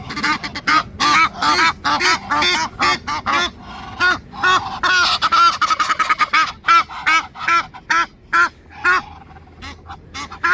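A flock of geese honking: many short honks in quick, overlapping succession, several birds calling against each other, which the feeder takes for a contest for dominance within the flock.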